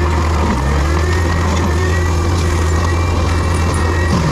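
Diesel engine of heavy land-clearing equipment running steadily, a strong low drone with a faint high whine wavering above it.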